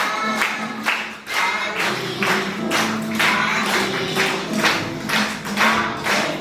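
A children's song with singing, with hands clapping along on the beat about twice a second.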